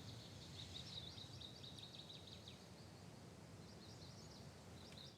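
Faint outdoor ambience: a low steady hush with quick, high chirps coming in clusters, busiest over the first couple of seconds and again near the end.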